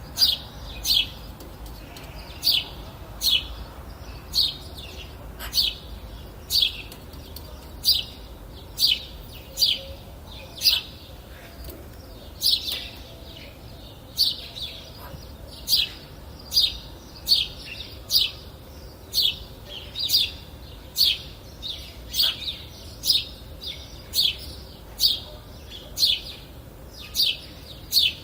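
A bird singing a steady series of short, high chirps, each sliding quickly downward in pitch, about one or two a second and often in quick pairs.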